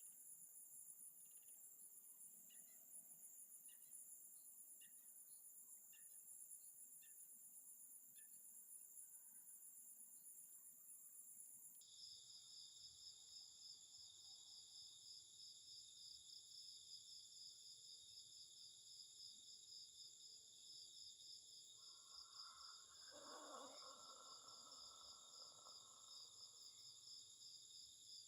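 Faint chorus of insects trilling steadily in several high, fast-pulsing tones. The mix of tones changes abruptly about twelve seconds in. A short, lower sound rises over it a few seconds before the end.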